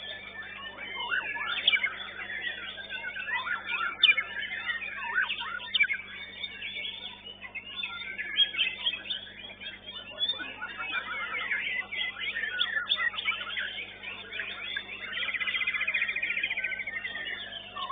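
White-rumped shamas (murai batu) singing over one another in a rapid, varied stream of whistles and chirps. Near the end comes a fast, rattling trill. A steady low electrical hum runs underneath.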